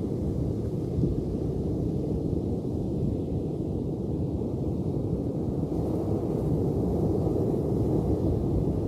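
Ocean surf making a continuous low rumbling wash, swelling slightly about six seconds in.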